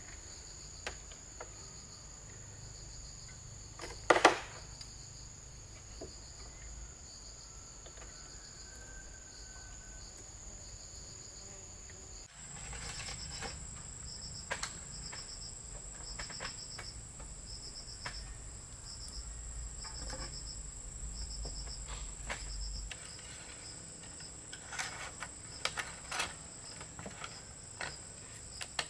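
Rainforest insects droning, a steady high whine with a repeating pulsed chirp beneath it, over scattered knocks and clicks; one loud knock comes about four seconds in.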